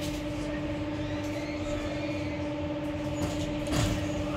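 Inside an electric S-Bahn commuter train pulling slowly out of a station: a steady electric hum with two held tones over the low rumble of the running gear.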